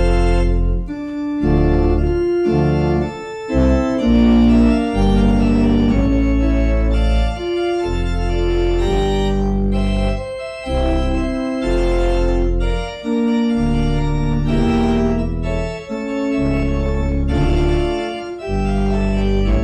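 Organ playing a postlude: sustained full chords with a deep pedal bass, changing every second or two with short breaks between phrases.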